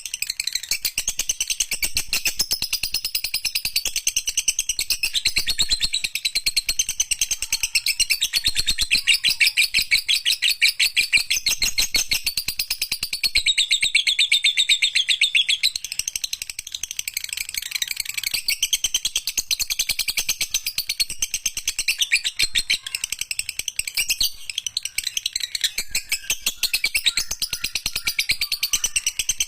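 Lovebird singing a long, unbroken chattering trill ('ngekek panjang'): rapid high-pitched chirps strung together with hardly a pause.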